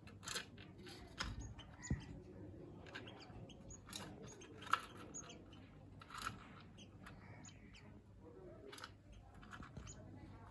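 Munias calling: scattered short, faint chirps at irregular intervals.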